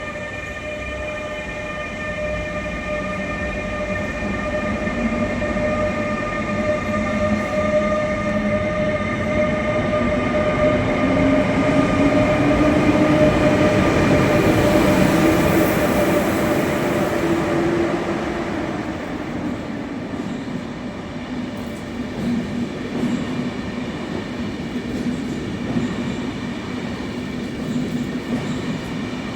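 Electric train running through the station with a steady electric whine and a lower tone that rises and then falls over the rumble of the wheels. It grows louder to a peak about halfway through, then eases off.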